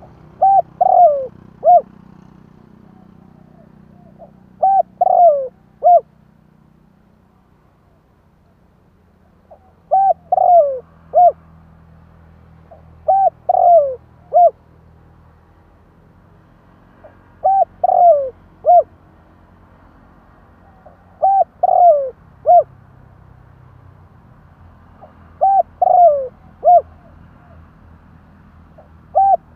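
Spotted dove cooing: a male's song phrase of three or four coos, the middle one longer and falling, repeated about every four seconds, eight times. This is the cooing used as a lure call to draw in wild spotted doves.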